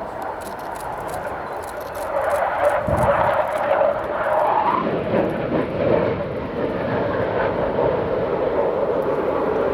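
Panavia Tornado jet running under power in a flypast, its twin turbofans making a loud steady roar that swells about two seconds in.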